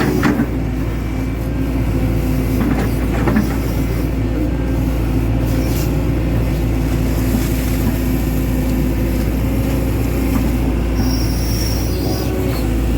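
Hitachi Zaxis 110 excavator working, its diesel engine running steadily, with a few metallic clanks and a brief high-pitched squeal near the end.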